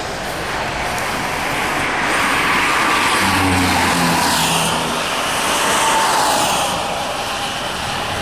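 Road traffic passing on a highway: a steady rush of tyres and engines, with a deeper engine hum rising about three seconds in and fading a second later.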